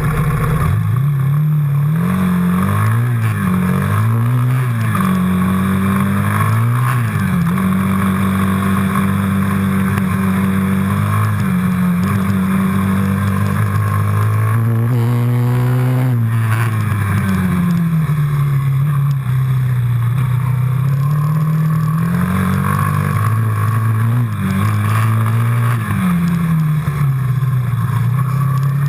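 Quad bike engine running under way, its pitch climbing and dropping back again and again as the rider works the throttle.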